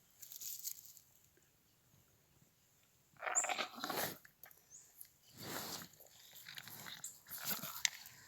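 A dog making several short, noisy sounds. Three or four bursts come in the second half, each under a second long.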